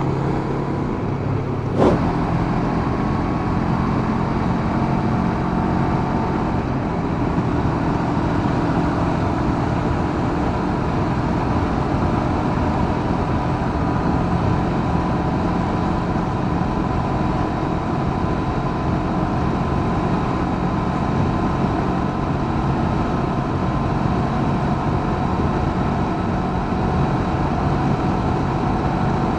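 Honda CB500X's parallel-twin engine running at a steady cruise under wind noise, with one sharp click about two seconds in.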